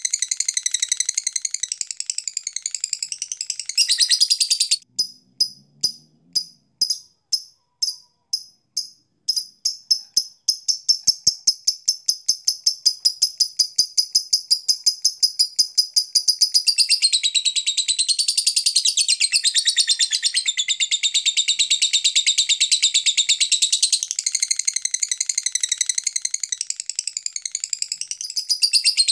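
Lovebird singing: long runs of high, rapid chattering, broken about five seconds in by separate chirps that quicken into a fast, even trill lasting several seconds, before the dense chattering returns.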